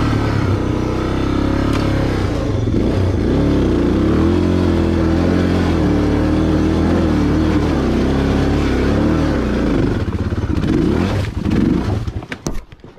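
Motorcycle engine running under load and revving, its pitch rising and falling as the rider works the bike through a rutted climb. About twelve seconds in the engine sound stops abruptly, with a few sharp knocks.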